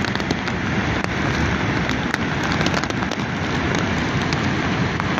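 Loud, steady rush of water: a dense even hiss peppered with many small crackling ticks.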